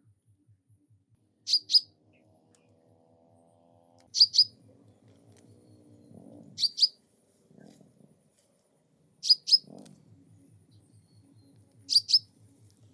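A bird calling: a sharp, high two-note chirp repeated five times at even intervals of a little under three seconds.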